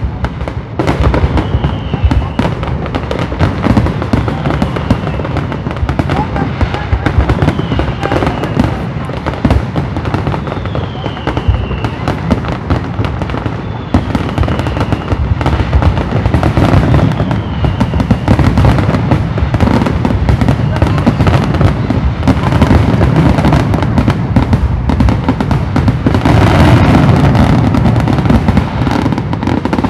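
Aerial fireworks shells and batteries bursting in a dense, continuous barrage, getting loudest in the last few seconds. Short falling whistles recur every few seconds.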